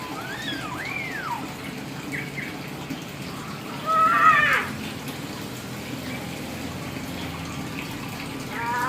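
Hill myna calling: an arching whistle that rises and falls in the first second, then a louder call with a falling pitch about four seconds in, and another call starting near the end. A steady hiss like running water lies underneath.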